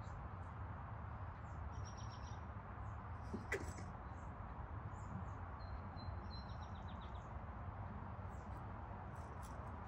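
Small birds chirping with short high trills, twice, over a steady low background noise, with one sharp click about three and a half seconds in.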